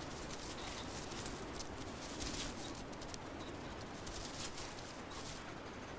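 Wood pigeons feeding: rustling and many small pecking clicks, with soft cooing.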